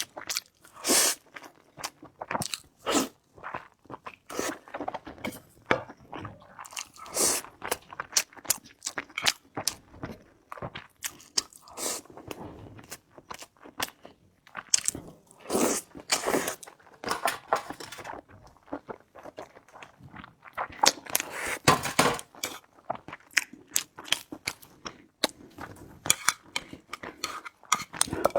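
A person chewing and biting food close to the microphone, with frequent irregular crunches between quieter stretches of chewing.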